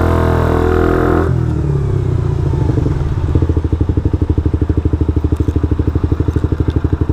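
Suzuki GSX-R125's single-cylinder engine running at raised revs, dropping off about a second in and then settling into a steady, evenly pulsing idle.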